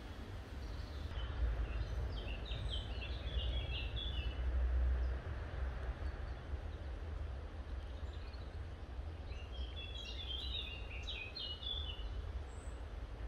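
A bird singing two phrases of quick, high chirping notes, about two seconds in and again near ten seconds, over a steady low rumble.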